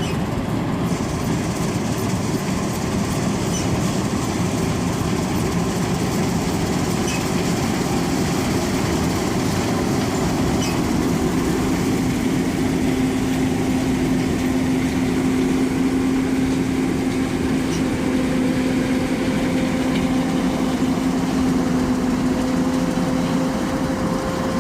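Combine harvester running steadily, a dense mechanical noise with a low hum that comes in about halfway through and holds to the end.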